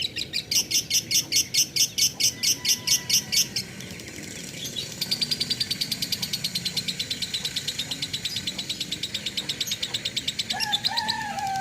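Lovebird singing a long drawn-out chattering song of rapid repeated high notes, about six a second. The loud first run stops about three and a half seconds in, and a softer run follows. A short lower gliding whistle comes near the end.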